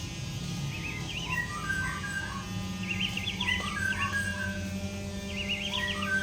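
White-rumped shama (murai batu) singing: three bursts of fast, zigzag trilled phrases among lower whistled notes, over a steady low hum.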